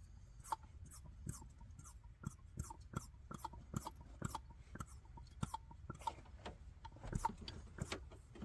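Faint, fairly regular clicks, about three a second, from pumping by hand to draw diesel through a newly fitted fuel filter and bleed the air out of the filter and injection pump.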